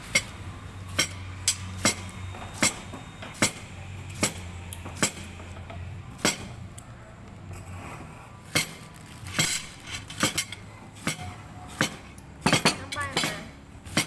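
Cutlery clinking against plates and bowls during a meal: sharp clicks at first about every three-quarters of a second, then more irregular, with a quick run of clinks near the end. A low steady hum lies under the first half.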